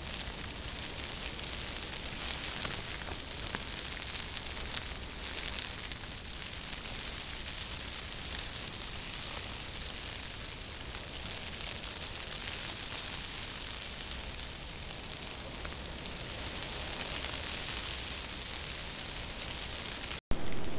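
Hard-falling snow pelting the fabric of a tent, a steady hiss that stops abruptly near the end.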